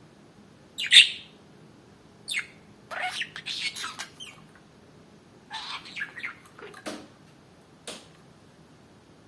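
Pet budgerigar chirping and chattering in short bursts: a loud squawk about a second in, then clusters of quick chirps and chatter, and a short chirp near the end.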